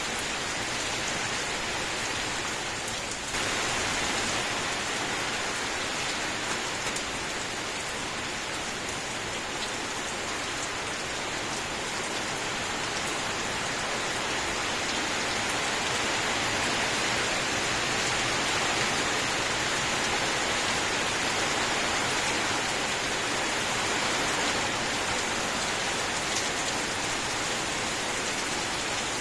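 Steady rain falling, a dense, even hiss of countless drops, growing slightly louder about three seconds in.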